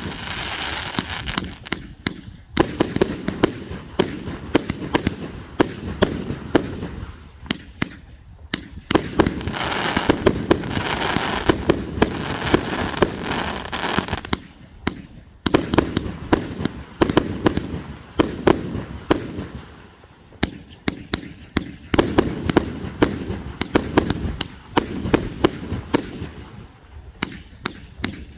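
Fireworks going off in dense volleys of sharp bangs and crackles, in waves that fade into short lulls and build again every few seconds.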